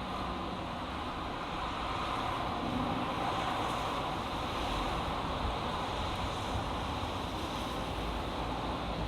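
Steady road traffic on a highway, a continuous rush of tyres and engines that swells a little about two seconds in.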